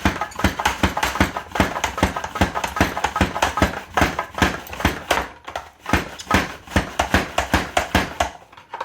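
Cucumber being pushed back and forth over a Rapid Prep mandoline slicer set to cut long skinny strips: a fast, steady run of clacking strokes, about three or four a second.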